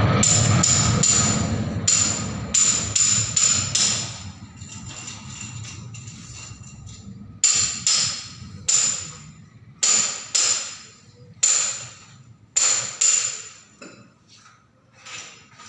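Jet aircraft noise fading away over the first few seconds, followed by a series of sharp, ringing knocks at uneven spacing.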